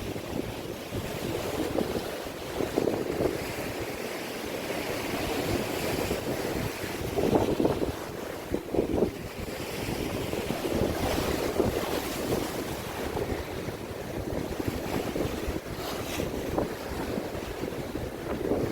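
Sea waves washing against the shore, rising and falling in surges, with wind buffeting the microphone.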